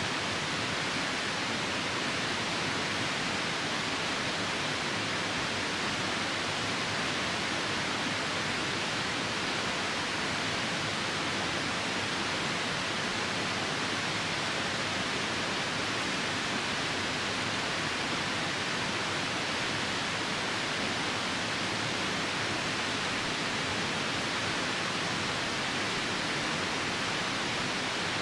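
Steady rushing of a nearby river mixed with falling rain: a constant, even hiss that does not change, with no fire crackle standing out.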